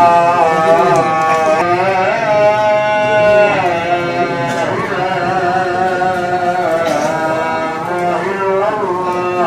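A single voice chanting melodically in Islamic style, holding long notes that waver and glide between pitches, as at an Eid al-Adha prayer gathering.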